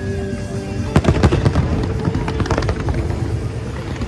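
Fireworks going off in a rapid run of sharp bangs and crackles, with a strong bang about a second in, over music playing along with the display.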